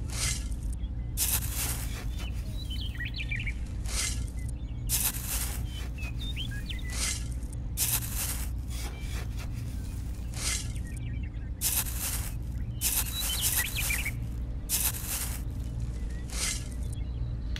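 Small hand trowel scraping and cutting into damp sand in short strokes, roughly one a second, over a steady low rumble. Faint bird chirps come through between the strokes.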